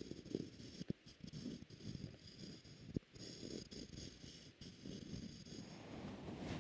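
Soft, close-miked rustling and scratching with two sharp clicks, about a second in and about three seconds in, over faint steady hiss.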